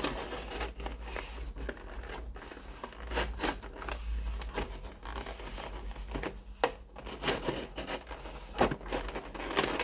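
Packaging being cut open with a sharp knife and handled: a run of irregular crinkles, crackles and small clicks.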